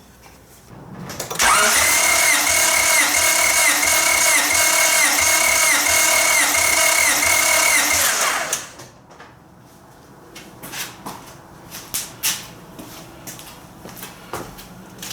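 Starter cranking a Honda D16Z6 four-cylinder engine for about seven seconds without it firing, as for a compression check: a steady whine that dips in pitch about twice a second as the cylinders come up on compression, then stops abruptly. Light clicks and tool handling follow.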